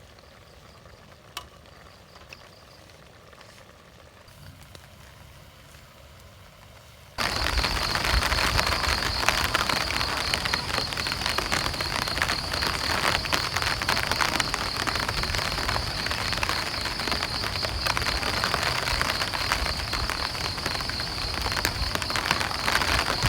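Rain, heavy and steady, starting abruptly about seven seconds in after a quiet stretch with a few faint pops.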